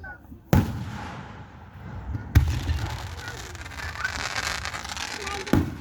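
Aerial fireworks shells bursting: three sharp booms, about half a second in, near two and a half seconds, and near the end. A crackling hiss follows the second boom.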